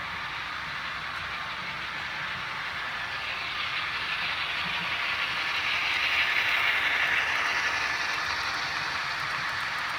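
HO-scale model train running past, a steady noise that swells to its loudest about six to seven seconds in and then eases off.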